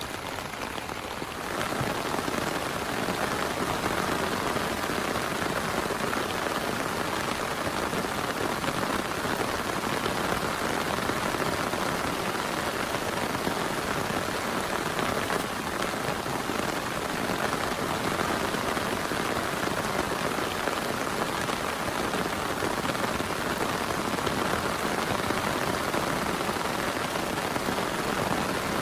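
Heavy rain falling steadily, a dense even hiss that gets louder about a second and a half in.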